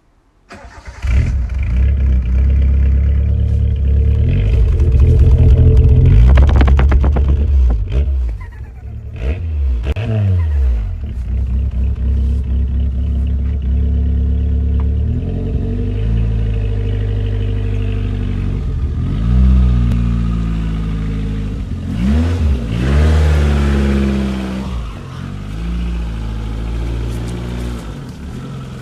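Turbocharged Suzuki Swift 1.3 GS four-cylinder engine starting about a second in, then running and being revved several times, its pitch rising and falling with each blip.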